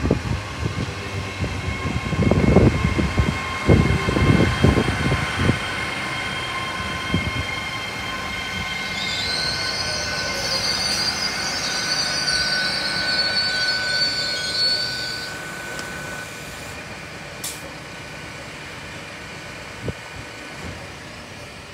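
GWR Class 802 Intercity Express train passing through a station. Low thumps from the wheels on the rails come in the first few seconds, over several steady whining tones, with a wavering high wheel squeal near the middle. The sound fades as the train goes away.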